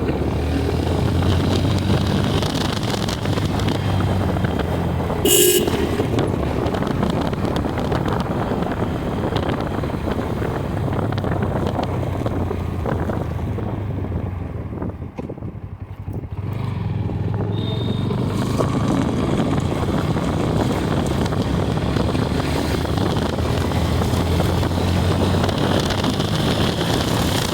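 Motorcycle engine running steadily on the move, with traffic noise. A vehicle horn toots briefly about five seconds in. The engine sound drops away for a moment around the middle and then comes back.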